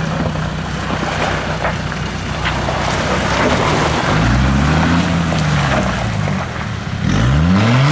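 Off-road 4x4's engine running, then revved up and easing off about four seconds in, and revved sharply again near the end, with a rough hiss over it.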